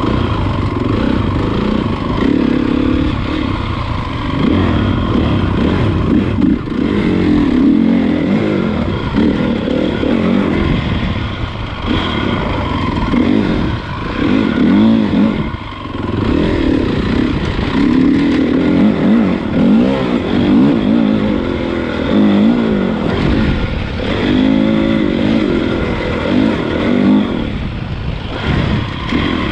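Honda CRF450 motocross bike's single-cylinder four-stroke engine under way, its revs rising and falling again and again as the throttle is opened and closed.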